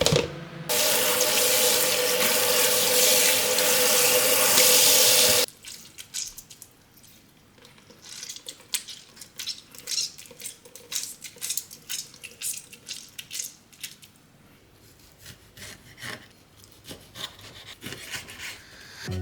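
Kitchen tap running water into a sink for about five seconds, then cut off suddenly. A long string of light, irregular taps and scrapes follows.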